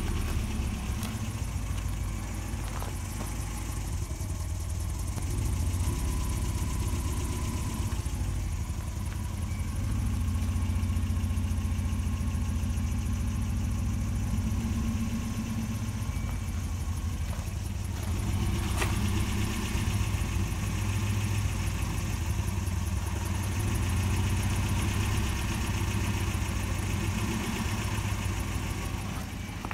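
1993 Volvo 240's 2.3-litre four-cylinder engine idling roughly, its level swelling and sagging over several seconds at a time. The owner suspects either a faulty sensor or a fuel problem.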